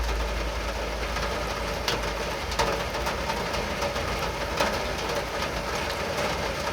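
Steady rain, with a low rumble underneath and a few sharp drip-like taps.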